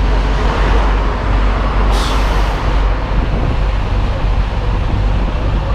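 Semi tractor's diesel engine running steadily, with a short sharp hiss of air from the truck's air brake system about two seconds in.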